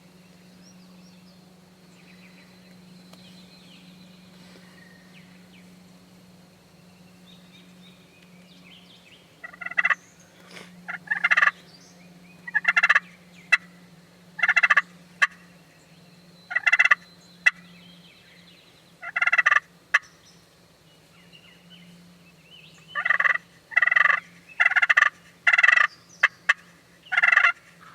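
Wild turkeys gobbling, a dozen or so loud calls in quick succession that begin about a third of the way in.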